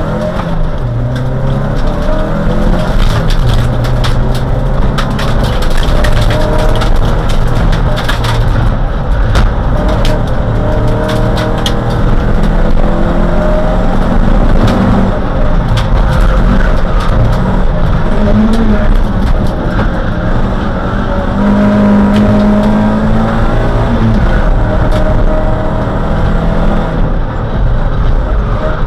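Dodge Neon race car's four-cylinder engine heard from inside the cabin under hard acceleration on track. The revs climb, drop at each shift or lift, and climb again, over steady tyre and road noise with scattered sharp clicks and rattles.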